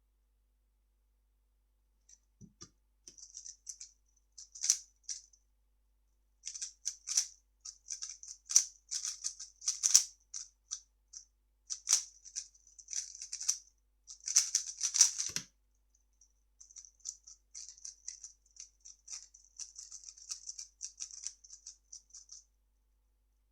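A 3x3 speedcube being turned fast by hand: quick bursts of light plastic clicking and rattling as the layers snap round, with brief pauses between runs of turns. There is a dull knock about two and a half seconds in and another about fifteen seconds in.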